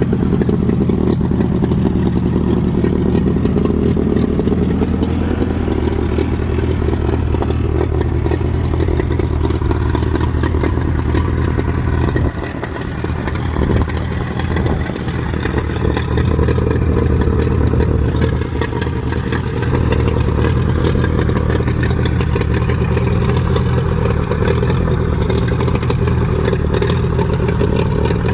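Allis-Chalmers WD45 tractor engine running steadily, with a brief drop in level about twelve seconds in.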